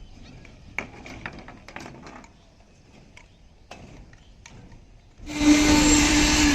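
A few light clicks and knocks, then about five seconds in a loud engine-driven machine suddenly starts up with a steady hum.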